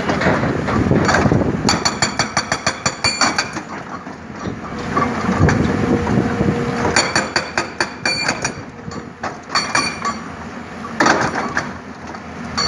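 Excavator-mounted hydraulic breaker hammering in bursts of rapid, evenly spaced blows, several a second, over the steady run of the excavator's diesel engine.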